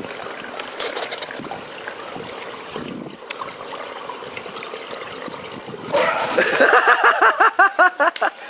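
Swimming-pool water splashing and trickling. About six seconds in, a loud voice breaks in with a quick run of short rising-and-falling bursts, about four a second.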